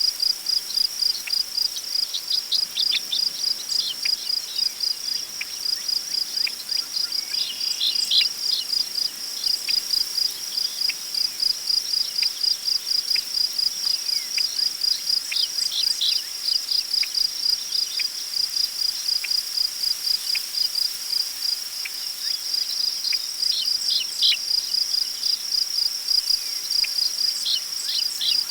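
Crickets chirping in a steady rhythm of about three high chirps a second, with scattered short bird calls.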